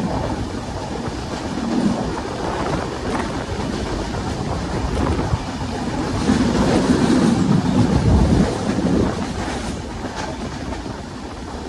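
Train running on the rails: a steady rumble with wheel clatter, growing louder about six seconds in and easing off after about nine seconds.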